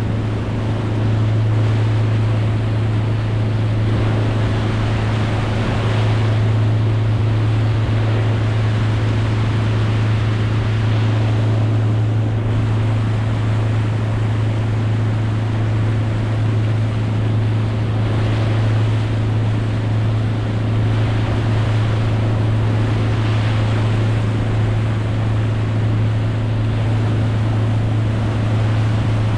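A boat motor running at a constant pitch with a steady low hum, under the rushing of water and wind noise.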